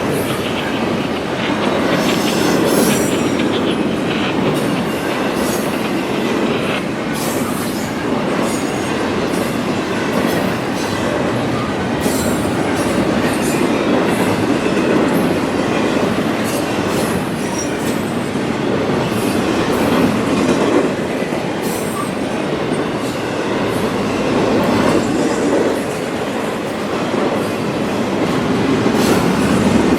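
CSX freight train cars rolling past: a steady rumble of steel wheels on rail, with repeated clicks as the wheels cross rail joints.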